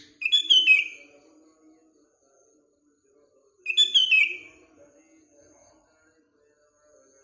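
Sooty-headed bulbul (kutilang) singing the same short phrase twice, about three and a half seconds apart. Each phrase lasts about a second and falls in pitch.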